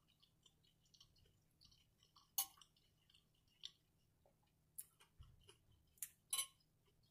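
Quiet, close-miked chewing and mouth sounds of someone eating crispy fried catfish, with a handful of sharp clicks from a metal fork against the plate.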